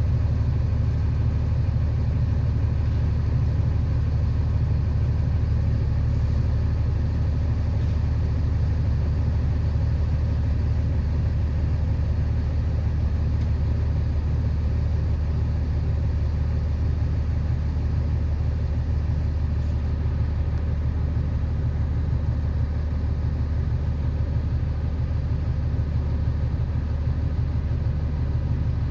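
An engine running steadily at an even speed, a low unbroken drone with no load changes or impacts standing out.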